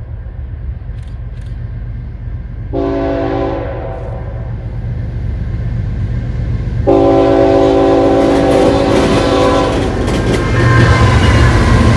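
CPKC train's locomotive air horn sounding a chord: a short blast about three seconds in, then a long blast of about three seconds. Under it the locomotive's diesel rumble runs steadily and grows louder near the end as the train comes by, with rail and wheel clatter.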